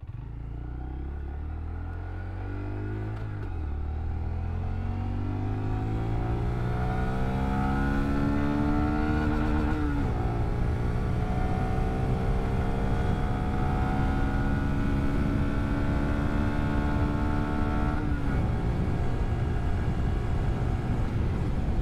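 Honda Grom's single-cylinder four-stroke engine accelerating, its pitch climbing with a gear change about three seconds in and another near ten seconds. It then runs at a steady pitch, with one brief dip later on.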